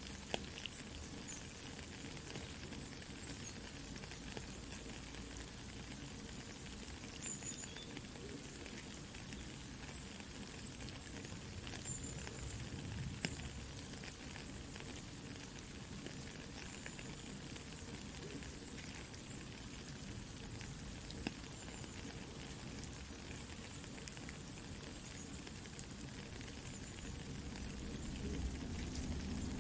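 Soft, steady rain mixed with a campfire crackling, with scattered small pops; the low rumble grows a little louder near the end.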